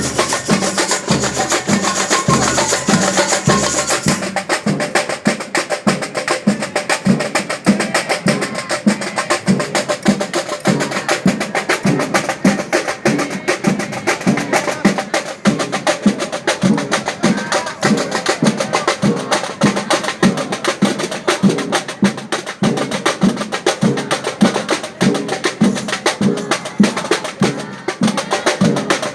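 A percussion-led band playing, its drums keeping a steady beat of about two strokes a second under pitched parts, with a bright cymbal-like shimmer in the first few seconds.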